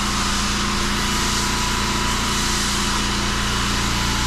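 Engine-driven pressure washer running steadily, with the even hiss of its water jet rinsing block paving.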